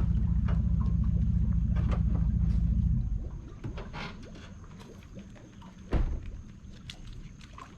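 Vehicle engine running with a low, steady rumble that cuts off abruptly about three seconds in, as if switched off. A single loud thump comes about six seconds in, with scattered short high chirps or clicks in the background.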